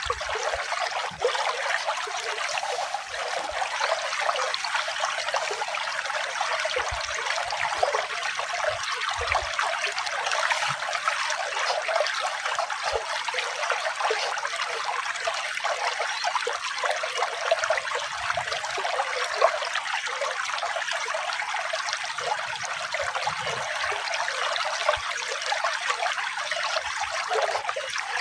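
Running water trickling steadily, a continuous bright rush with no deep tones.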